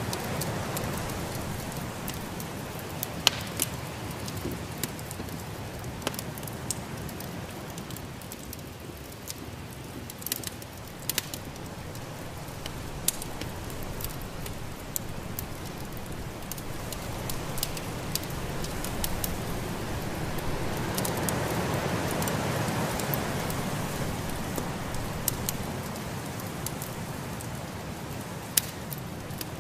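Wood fire crackling with irregular sharp pops over a steady rushing of snowstorm wind, which swells for a few seconds about two-thirds of the way through.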